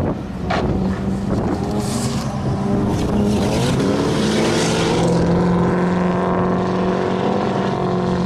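Sport compact race car engine at high revs on track. Its pitch climbs about four seconds in, then holds steady.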